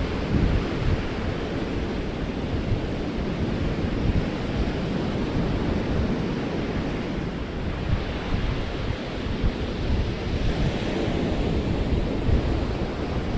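Ocean surf breaking on a beach, a steady rush, with wind buffeting the microphone in low gusts.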